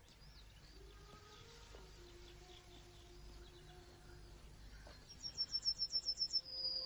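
Outdoor ambience with faint bird chirps. About five seconds in a songbird sings loudly: a quick run of about ten short high notes ending in one long held note.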